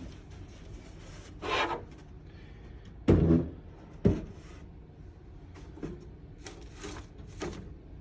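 Parts of a toy building diorama being handled and shifted: rubbing and scraping, with a heavy knock about three seconds in, a sharp click a second later, and lighter clicks after.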